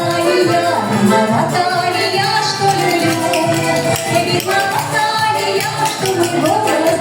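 A vocal trio singing a song over instrumental accompaniment with a steady beat.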